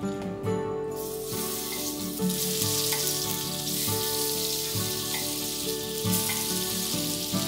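Butter sizzling as it melts in a hot fish-shaped bungeoppang pan. The sizzle starts about a second in and is loud and steady from about two seconds in, over background music.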